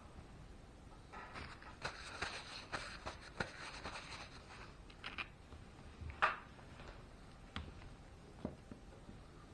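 Small parts being handled on a workbench: about three seconds of rustling and quick clicks, then a few separate clicks and taps, the loudest about six seconds in.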